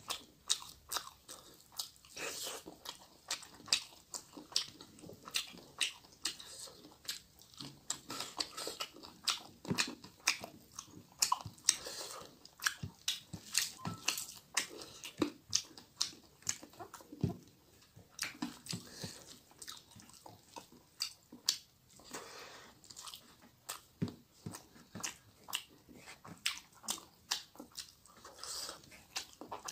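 Close-up sounds of a person eating rice and fish curry by hand: chewing, with many short wet clicks and smacks from the mouth and the sticky rice, coming quickly and unevenly.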